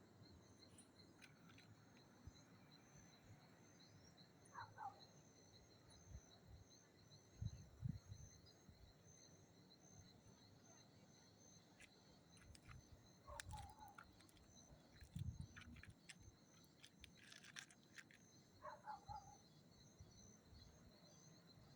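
Insects chirping steadily as two high pulsing tones, with a few short bird chirps and some faint low thumps.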